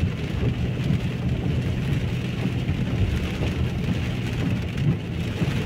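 Heavy rain falling steadily, a constant hiss over a low rumble.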